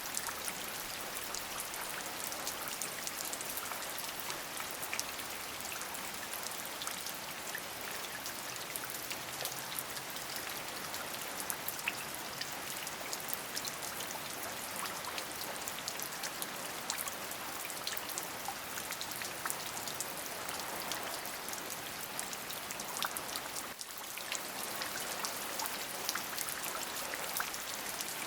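Steady rain, with many individual drops clicking against a surface over an even hiss. The level dips briefly about three quarters of the way through.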